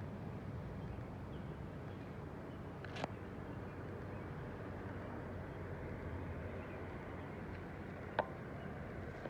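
Steady outdoor ambience of a garden after rain, an even low hush, broken by two brief sharp clicks about three seconds and eight seconds in.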